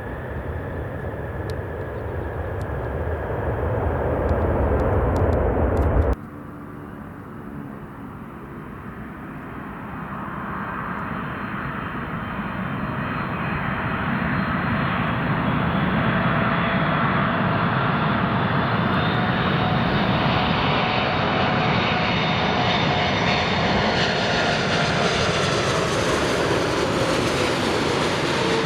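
Boeing 747 jet engines on approach and landing. A loud low rumble cuts off abruptly about six seconds in. Then another 747 is heard, starting quieter and growing steadily louder as it nears, with whining engine tones that drop in pitch near the end as it passes.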